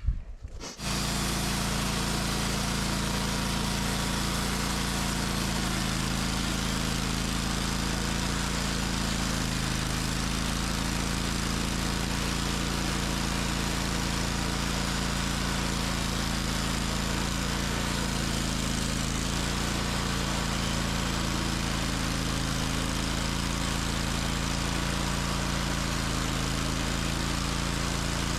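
Portable sawmill's engine running steadily at constant speed during a cut through an oak log. It sets in abruptly about a second in and holds an even level throughout.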